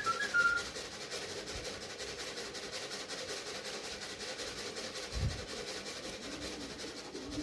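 A person whistling a few short notes to call racing pigeons in to the loft, ending within the first second, followed by a steady rushing hiss with a single low thump about five seconds in.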